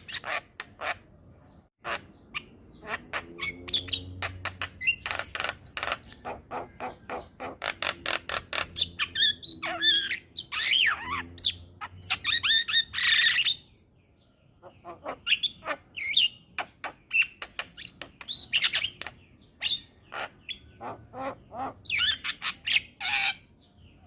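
Javan myna (jalak kebo) calling: a rapid series of short, sharp notes mixed with gliding whistled phrases, pausing briefly just past halfway.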